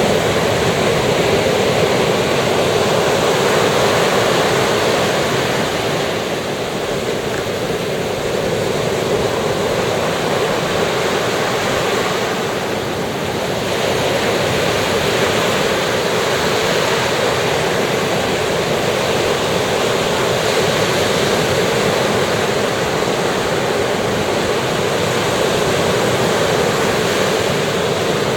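Sea waves breaking and washing on a beach, a steady rush with slight ebbs in strength now and then.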